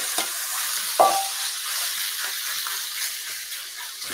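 Marinated chicken sizzling as it hits a hot wok, with a single ringing metal clink about a second in. The sizzle slowly dies down as the added food cools the wok on its electric hob, and a spatula taps against the wok near the end as it is stir-fried.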